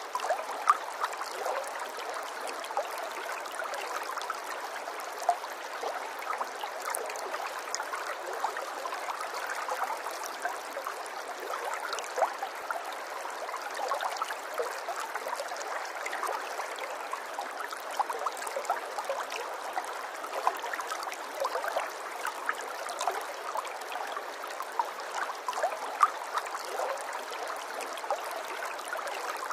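Running water trickling and gurgling: a steady rush dotted with many small splashes and drips.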